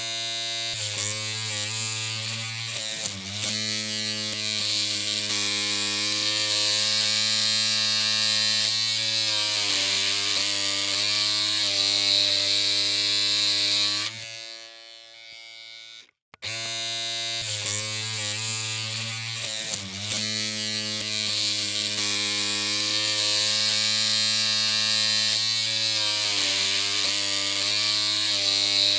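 Electric hair clippers running with a steady buzzing hum, their pitch wavering slightly now and then. The hum stops about fourteen seconds in and starts again a couple of seconds later.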